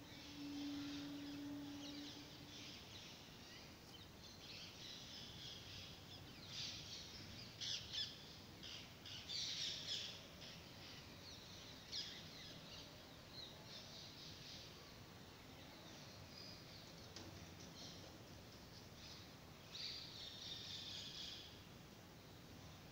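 Faint background bird calls, short high chirps coming in scattered clusters over a quiet noise floor. A low steady hum stops about two seconds in.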